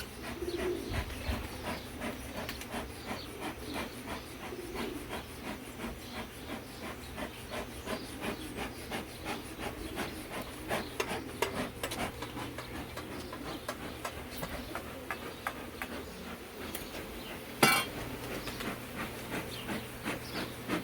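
Wooden beehive equipment being handled: irregular light knocks, taps and scraping of wood on wood, with one louder bump near the end.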